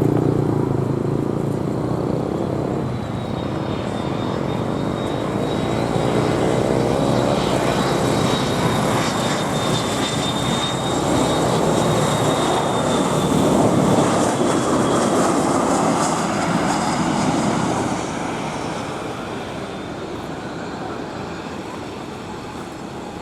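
Airliner's engines roaring as the aircraft passes, with a thin high whine over the roar through the middle. The sound fades away over the last few seconds.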